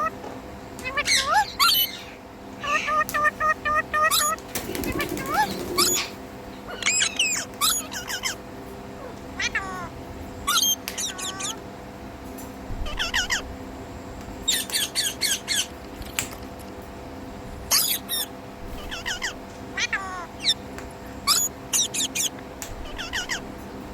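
Ringneck parrot calling: a string of short, sharp chirps and squeaky sliding notes with short gaps between them, and a bout of fast repeated chattering notes about three seconds in.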